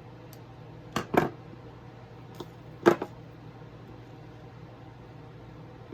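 A few sharp metal clicks and taps of pliers and small jump rings being handled while making chainmaille: two close together about a second in and a louder one near three seconds in, over a steady low hum.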